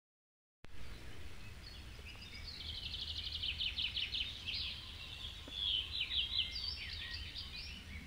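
Birds chirping and twittering in quick runs of high notes over a low steady rumble of outdoor ambience, starting after a moment of silence.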